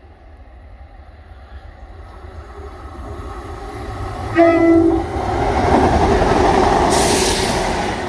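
A Class 170 Turbostar diesel multiple unit approaching and passing close by, growing steadily louder, with one short beep on its horn about four and a half seconds in. The rush of the train going past is loudest near the end.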